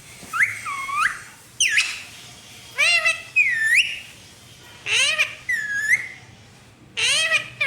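Pet parrot calling "mummy" over and over in a high, sliding, whistle-like voice, about five two-syllable calls a second or two apart.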